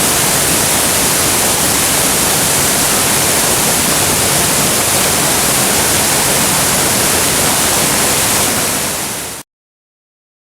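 Jinba Falls waterfall: a steady, loud rush of falling water. It fades slightly, then cuts off suddenly about nine seconds in.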